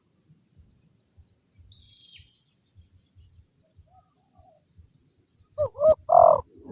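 Spotted dove cooing close by, a loud phrase of two or three rounded coos starting about five and a half seconds in. Before that there is a faint brief chirp from a small bird about two seconds in.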